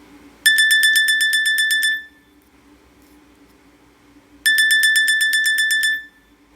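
Nokia E63 mobile phone playing a beeping alert tone through its speaker: a burst of rapid high beeps, about ten a second, lasting about a second and a half, then the same burst again about four seconds later.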